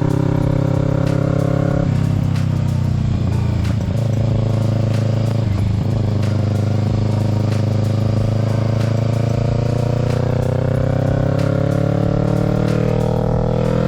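Kawasaki Z650's parallel-twin engine running under way, its note changing abruptly about two seconds in as the throttle or gear changes, then rising steadily in pitch over the last few seconds as the bike accelerates.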